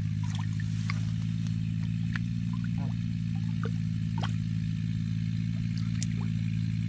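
A steady low motor drone, like a small engine running at constant speed, with scattered short splashes and clicks over it.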